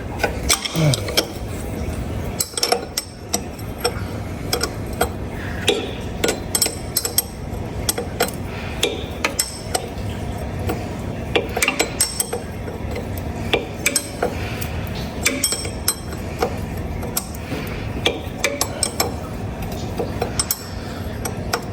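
Hand tools and metal parts clinking and tapping at irregular intervals during repair work on a pressure washer, over a steady low hum.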